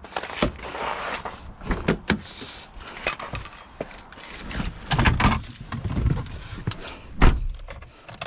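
Keys jangling and a run of clicks and knocks as a car is got into, with a heavy car-door thump about seven seconds in.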